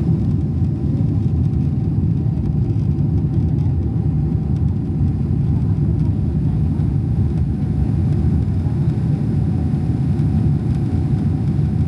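Steady low cabin rumble inside a Boeing 777-300ER, with a faint steady tone above it.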